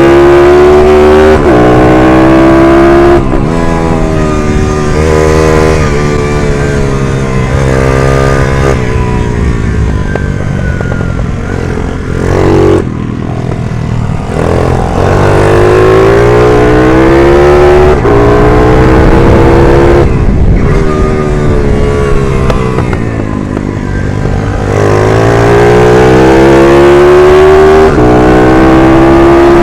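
A 140cc race minibike engine revving hard, its pitch climbing and dropping again and again as it accelerates and backs off around the track.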